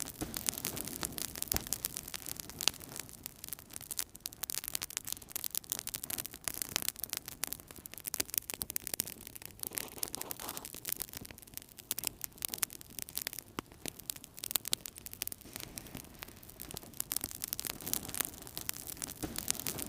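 Fire burning in a fireplace, crackling steadily with dense, irregular small pops and snaps over a soft low rush of flame.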